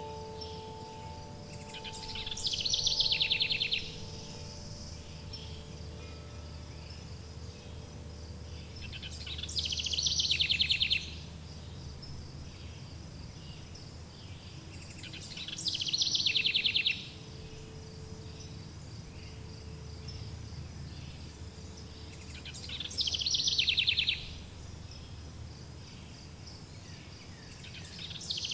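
A songbird singing a short, rapid trilled phrase, repeated about every six to seven seconds, over a steady high insect-like buzz and a low rumble of ambience. Wind chime tones ring out and fade in the first few seconds, with a faint chime again about halfway through.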